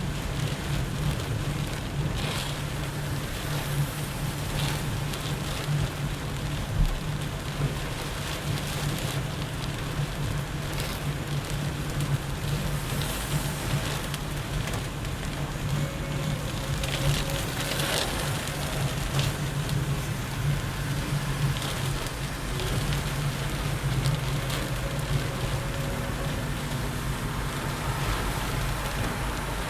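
Heavy rain pelting a car, with scattered sharper drop hits over the steady low hum of the car driving on the highway.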